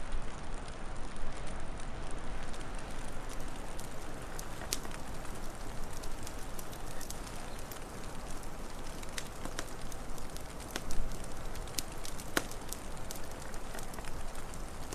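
Wood fire crackling, with scattered sharp pops and snaps over a steady low rushing bed; one louder pop about eleven seconds in.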